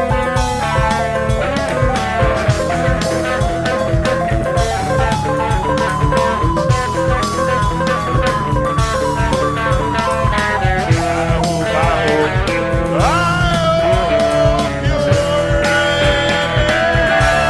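Electric guitar played in a blues-rock jam over a steady beat, with repeated falling runs of notes and a note bent sharply upward about two-thirds of the way through.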